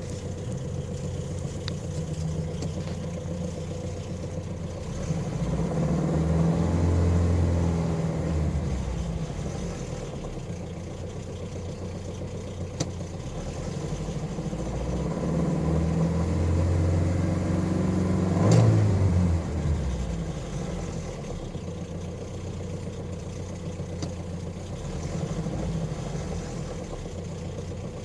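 A 2.2-litre engine running with timing chain noise, likely before the repair. It is revved up and let back down twice, the second time with a sharp crack at its peak.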